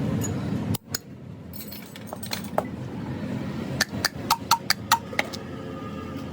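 Metal pieces clinking against each other: a few scattered clicks, then a quick run of about six sharp, ringing clinks in the middle. A steady low rumble cuts off abruptly just under a second in.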